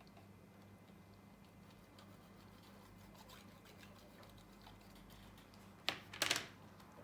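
Faint small taps and ticks of hands working at a repair bench over a steady low electrical hum, then a sharp click and a brief scraping rustle near the end.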